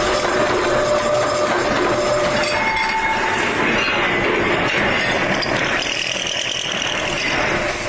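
Metalworking machinery running steadily, with metal parts clinking and brief ringing squeals.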